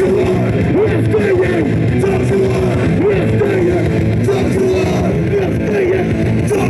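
Punk rock band playing live and loud, distorted electric guitar to the fore, with a run of bent notes that swoop up and back down several times over the band.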